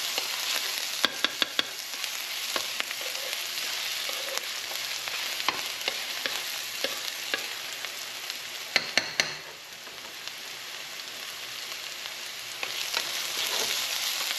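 Chopped onion, garlic and ginger sizzling in hot oil in a nonstick wok, with a spoon stirring and clicking against the pan. The sharpest clicks come in a cluster about nine seconds in; the sizzle eases off for a moment just after and grows louder again near the end.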